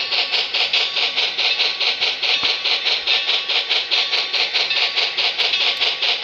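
Model B&O EM-1 Yellowstone steam locomotive's sound unit giving a steady steam exhaust chuff, about five chuffs a second, with a thin, high-pitched tone as the locomotive runs along pulling its train.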